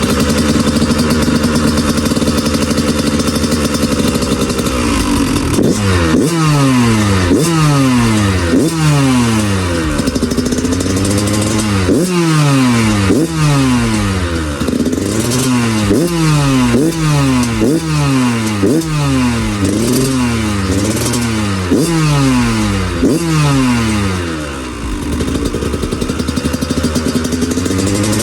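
Dirt bike engine running: it idles steadily for about five seconds, then is revved in quick repeated throttle blips, more than one a second, settling briefly near the end before being blipped again.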